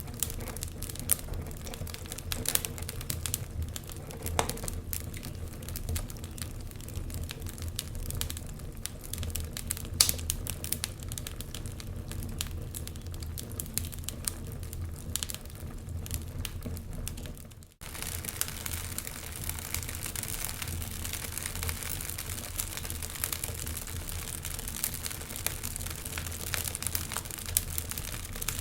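Wood fire crackling, with dense sharp pops and snaps over a low steady rumble of the flames. The sound drops out for a moment about two thirds of the way through, then carries on.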